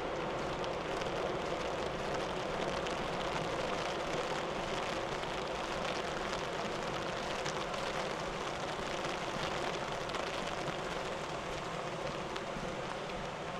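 Steady rush of water, an even hiss with faint pattering ticks through it, from rain and swollen floodwater.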